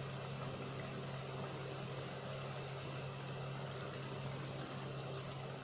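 Spiced onion-tomato masala sizzling and bubbling gently in a pot on the stove as it fries down, over a steady low hum.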